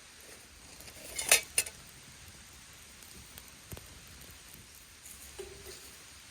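A quick cluster of sharp clinks a little over a second in, then faint scattered ticks and a soft knock.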